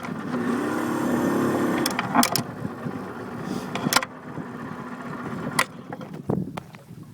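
Boat motor running steadily, with several sharp knocks or clicks over it.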